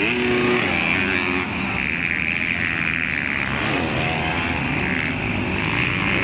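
Several 250 cc motocross motorcycle engines running hard during a race, their pitch rising and falling as the riders rev through the track.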